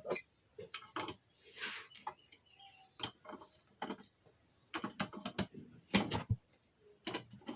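Irregular metallic clicks and clinks of hand tools loosening the nuts on a single-phase electric motor's housing, with a short scrape about a second and a half in.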